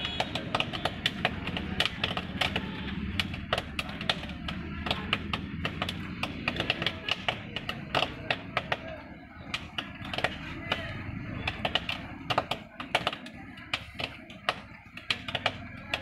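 Popcorn kernels popping in hot oil in a covered pot: a rapid scatter of sharp pops that thins out over the second half, over a steady low hum. The slowing pops show the batch is nearly finished.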